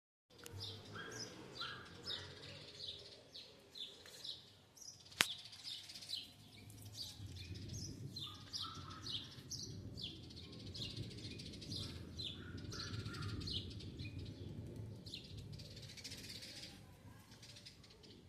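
Small birds chirping, short notes repeated again and again over a low steady rumble, with one sharp click about five seconds in.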